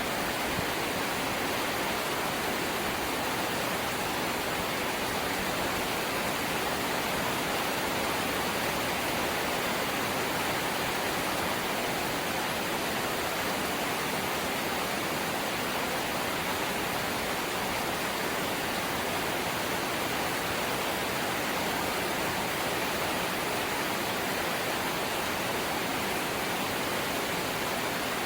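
Steady rain falling on a corrugated zinc roof: a dense, even hiss that does not let up.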